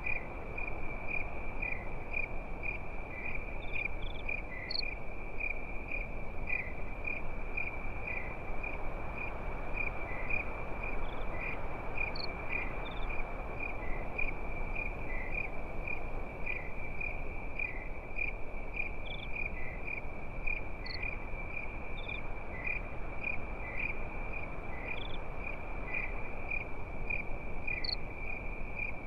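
Crickets chirping in a steady, high-pitched trill, with a few brief higher chirps scattered through, over a low, even rushing noise.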